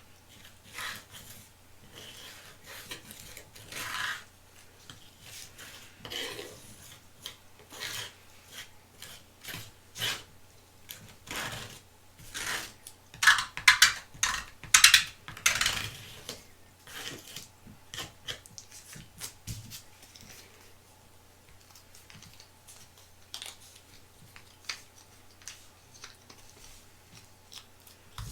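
Close-up rubbing and scraping of packaging and plastic being handled, in many short strokes with scattered clicks, and a louder run of scraping about halfway through.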